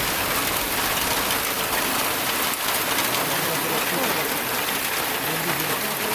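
Steady rain falling, an even hiss of raindrops without a break.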